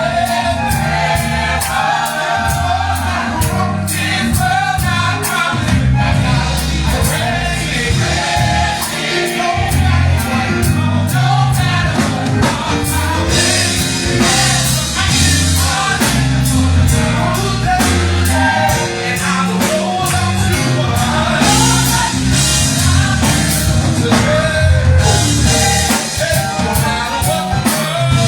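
Gospel choir singing with band accompaniment: bass, drum kit and keyboard playing a steady beat.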